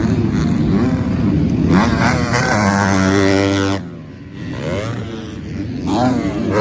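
250cc four-stroke motocross bikes running on the track. One engine climbs in pitch under throttle, then cuts off sharply about four seconds in. Another comes on the throttle near the end.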